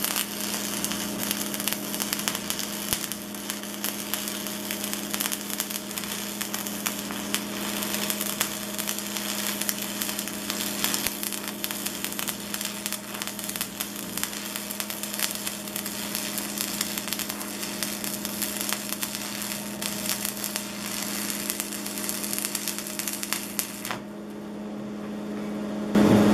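Stick-welding arc crackling and sizzling steadily as a 3/32 7018 AC rod burns at 90 amps from an AC buzz-box welder, with a steady hum underneath. The arc stops about two seconds before the end and the hum carries on.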